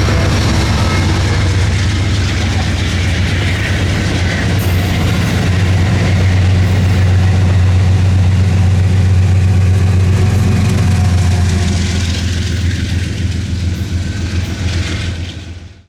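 A train running past close by: a loud, steady rumble with a low hum, cutting off abruptly at the very end.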